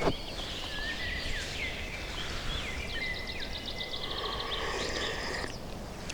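Several songbirds singing at once in the open, with overlapping whistled notes and, about halfway through, a fast rapid-fire trill. A brief knock comes right at the start.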